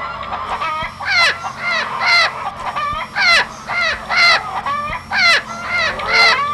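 A bird calling over and over in harsh, fowl-like calls, about two a second with every other one louder, each call dropping in pitch. A steady low hum runs underneath.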